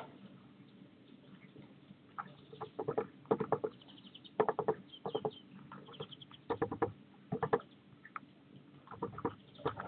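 A small bird very close to the microphone making bursts of quick taps and scratches, several clusters a second or so apart, with a few faint high chirps among them.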